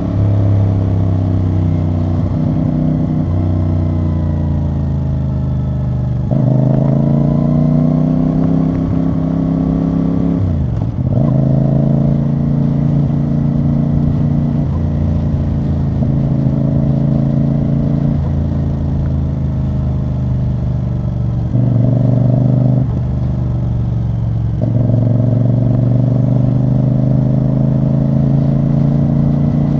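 CFMoto CL-C 450 motorcycle's parallel-twin engine and exhaust under way, the throttle opening and closing so the engine note steps up and down in loudness. About eleven seconds in the revs drop sharply and pick up again, as at a gearchange.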